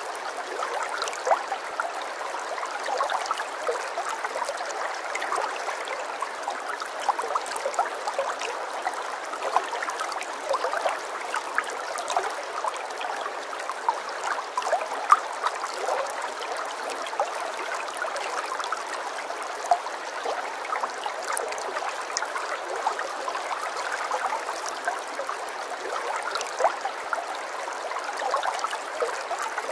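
Running water: a small stream flowing steadily, with many small splashes.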